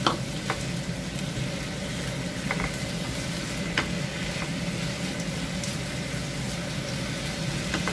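Chicken wings and celery sizzling in a nonstick frying pan with marinade sauce just poured in. A wooden spatula stirs them, tapping the pan a few times in the first four seconds.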